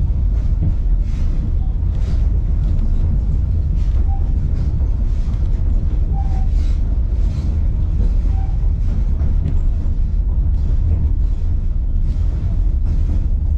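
Steady low rumble of a moving passenger train heard from aboard: wheels rolling on the rails, with faint rattles and a few brief faint squeaks.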